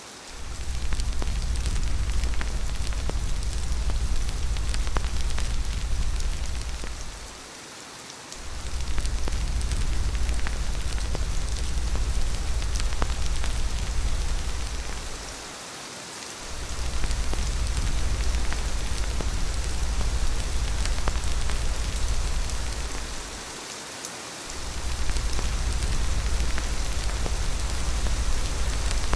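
Steady rain hiss with faint scattered drop ticks over a deep low rumble of wind. The rumble dies away briefly about every eight seconds, near the start, around a quarter of the way in, halfway through and about three quarters in, then returns.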